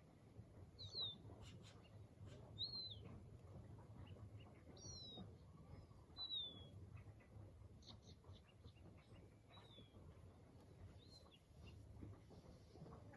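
A bird calling over and over, a short high chirp that arches and falls about every second and a half, faint over a low steady rumble.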